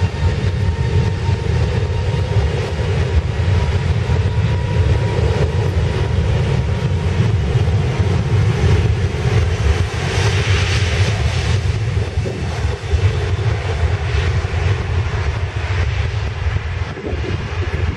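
Jet airliner engines at takeoff thrust: a loud, steady low rumble, with a hiss that swells about ten seconds in.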